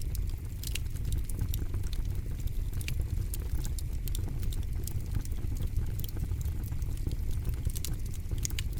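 Campfire crackling: frequent sharp snaps and pops over a steady low rush of burning.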